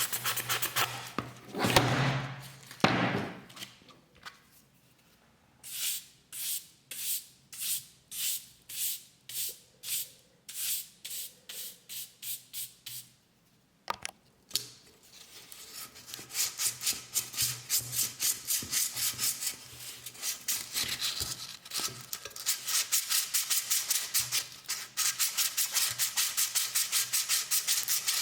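Rhythmic hand rubbing on a metal cup, the sound of sanding or scrubbing during rust removal: back-and-forth strokes about two a second, quickening to three or four a second after a short pause about halfway through. Two louder scrapes come near the start.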